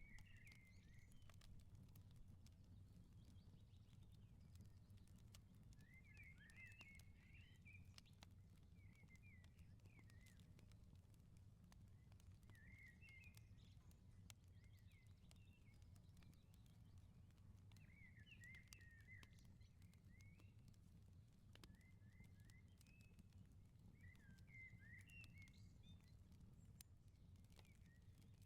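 Faint outdoor ambience: small birds twittering in short phrases every few seconds, with scattered tiny pops and clicks of a crackling firepit, over a steady low hum.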